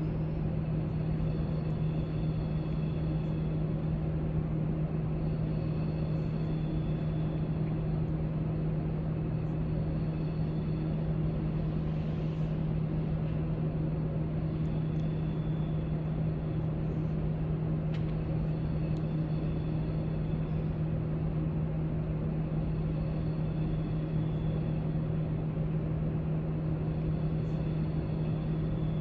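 Steady low hum of library room noise, with faint high tones that fade in and out every few seconds and a few soft clicks.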